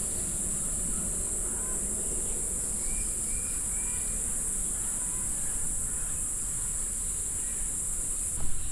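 Steady high-pitched buzzing of an insect chorus, with a few faint short bird chirps about three seconds in.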